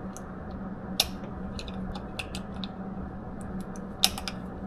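Small scattered clicks and ticks from handling a handgun and its ammunition, with a sharper click about a second in and another near the end, over a steady low hum.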